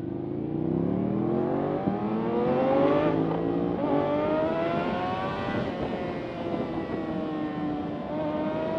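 Suzuki GSX-R 750 inline-four engine pulling away and accelerating. The revs climb, drop back at gear changes about three and five and a half seconds in, then hold fairly steady.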